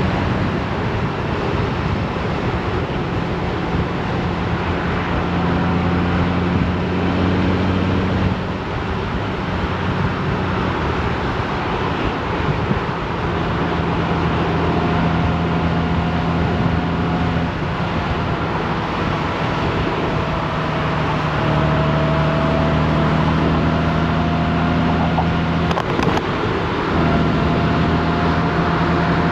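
Honda Gold Wing DCT's flat-six engine running at road speed over steady wind and road noise, its note shifting in steps several times as speed and gear change.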